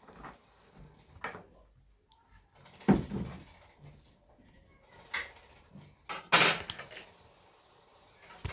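A string of short clatters and knocks of objects being handled, about five in all. The loudest comes about three seconds in, and a longer rattle follows a little after six seconds.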